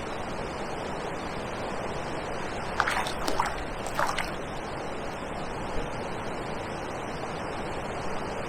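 Steady outdoor wash of wind and lapping water from a choppy river marina, with a few brief, short sounds about three to four seconds in.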